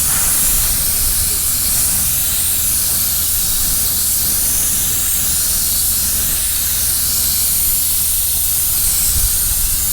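Compressed-air paint spray gun spraying primer onto a car body: a steady, even hiss of air and atomised primer.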